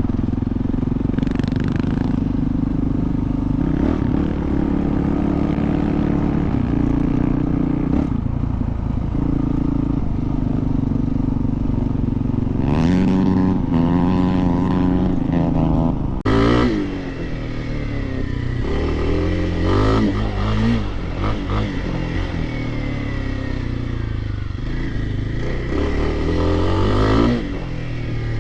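Dirt bike engine running steadily at first, then revved up and down repeatedly through the second half as the bike is ridden, its pitch rising and falling with the throttle.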